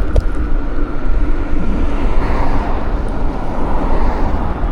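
Wind buffeting the microphone on a moving bike, a loud steady low rumble of wind and road noise.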